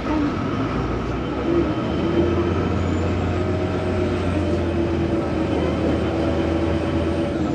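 Vaporetto water bus engine running with a steady low drone, growing stronger about a second and a half in.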